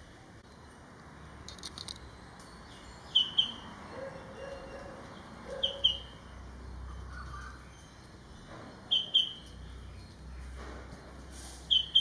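A bird calling a short, high double chirp four times, about every two and a half to three seconds.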